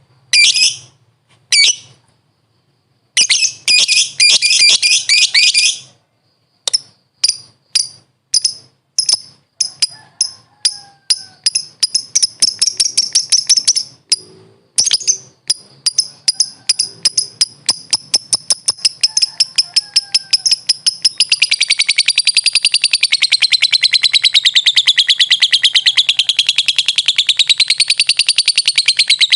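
Lovebird calling. A few sharp chirps and a short burst of chattering come first. Then single shrill chirps repeat ever faster until, about two-thirds of the way through, they run together into a long continuous rattling trill that wavers in pitch: the lovebird's 'ngekek' call.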